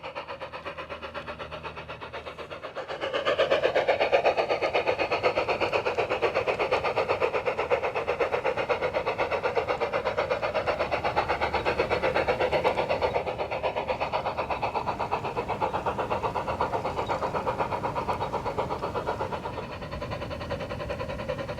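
Battery-powered, radio-controlled G-scale model train running along garden railway track, its running gear making a rapid, even rhythm that grows louder about three seconds in and then holds steady.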